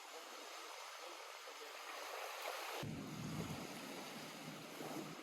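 Lake water lapping faintly at the shore, an even wash of small waves. About three seconds in, a low rumble joins abruptly.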